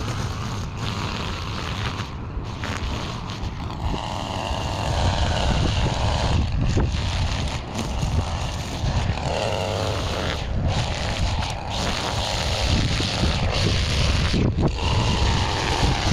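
Wind buffeting the microphone: a steady low rumble and gusty hiss, with some scraping and rustling now and then.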